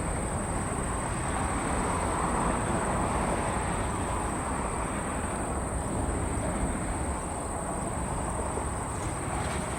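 Boeing 747-400's four jet engines heard from a distance during takeoff: a steady rumble that swells slightly a few seconds in and then eases. A constant high-pitched insect drone runs over it.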